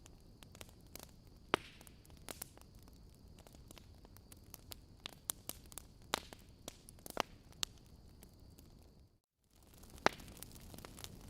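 Wood fire crackling in a fireplace: irregular sharp pops and snaps over a soft steady hiss. The sound drops out to silence for a fraction of a second about nine seconds in, then resumes.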